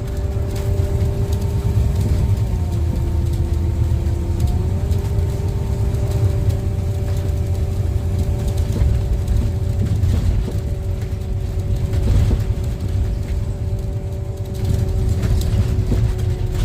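Scania N250UD double-decker bus heard from the top deck while driving: a low engine and road rumble with a steady whine that steps slightly in pitch a couple of times in the first few seconds.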